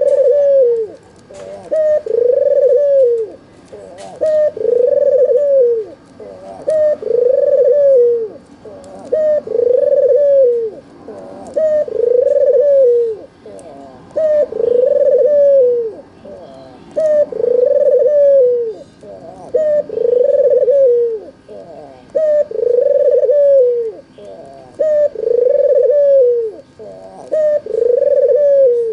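White red-eyed (albino) puter dove (Barbary dove) cooing: one arching coo of about a second, repeated about every two seconds. Faint small-bird chirps sound behind it.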